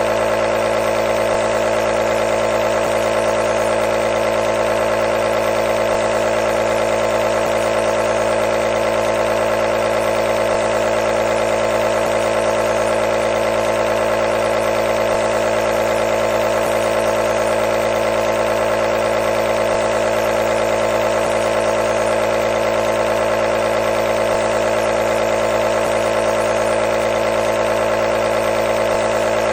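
Nebulizer running steadily: a constant motor buzz with a strong mid-pitched hum and no change in level.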